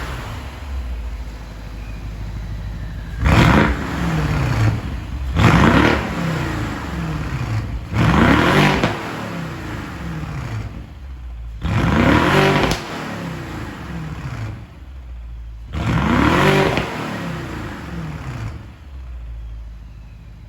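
BMW 650i's twin-turbo 4.4-litre V8 revving through a custom rear valved exhaust: about six quick blips of the throttle over a steady idle, each falling back down in pitch, the later ones held a little longer.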